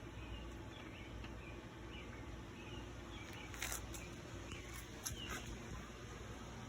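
Faint small bird chirps over a low steady hum, with a couple of sharp clicks about halfway through.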